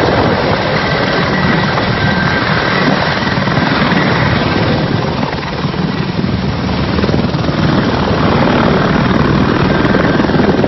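Mil Mi-35M attack helicopter running loud and steady, its main rotor beating rapidly over the noise of its twin turboshaft engines, with a faint high whine.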